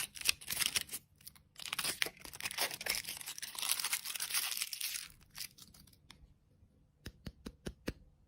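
Plastic food packaging being torn open and crinkled, a dense crackling rustle that fades after about five seconds, followed by five sharp clicks near the end.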